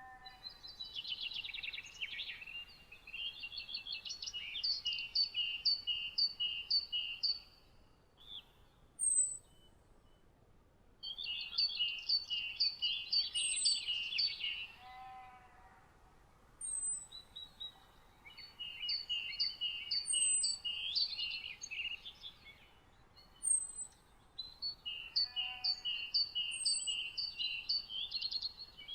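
Songbirds singing in the morning: one bird repeats phrases of rapid, evenly spaced notes, four phrases with short pauses between them. A thin, very high note from another bird recurs every couple of seconds.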